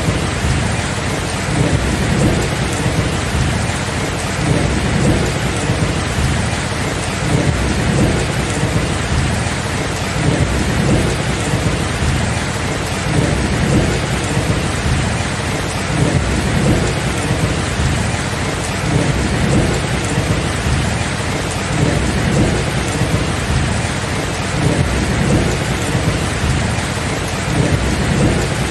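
Steady rain with a low rolling rumble of thunder underneath that swells and fades without any sharp cracks.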